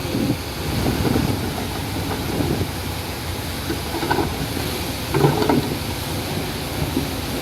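Heavy construction machinery running, with wind buffeting the microphone and a few short higher-pitched sounds around the middle.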